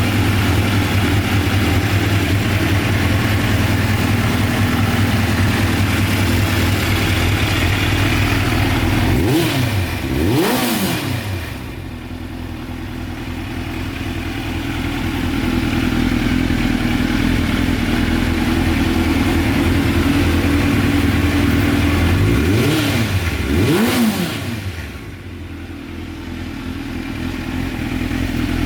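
Suzuki GSX-R600 inline-four engine idling steadily, with two pairs of quick throttle blips about thirteen seconds apart, the pitch rising and falling each time before settling back to idle.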